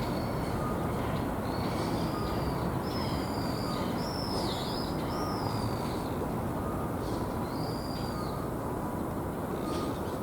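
A bird's high, arched whistled calls, several in a row from about two to six seconds in and one more near eight seconds, over a steady low rumble of background noise.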